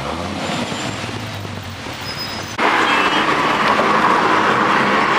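Car on the move: engine and road noise, jumping suddenly louder about two and a half seconds in.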